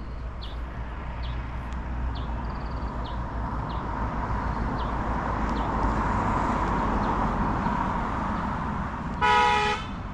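A vehicle passing on a nearby road, its noise swelling and fading, then a short horn honk of about half a second near the end.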